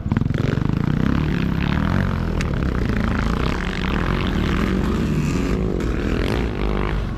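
Several sidecar motocross motorcycles racing, their engines running and revving together in a loud, continuous mix with shifting pitch.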